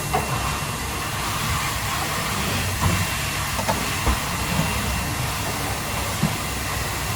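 Steady kitchen noise: an even hiss over a low rumble, with a few light knocks.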